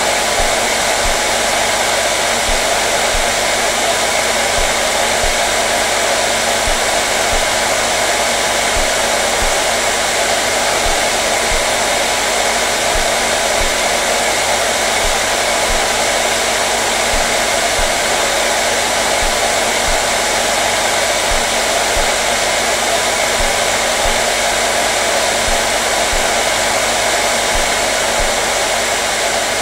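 Hair dryer running continuously: a steady, even rushing hiss of its fan and blowing air, with a faint motor hum.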